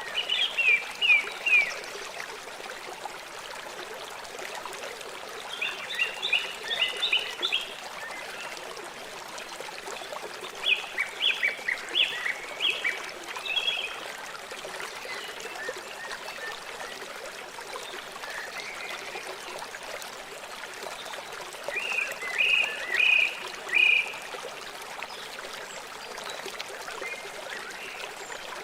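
River water flowing steadily, with an animal calling in four bouts of quick, high repeated notes, the calls louder than the water.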